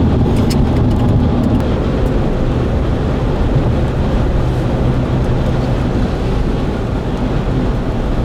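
Steady road and engine noise inside a moving car's cabin, a continuous low rumble.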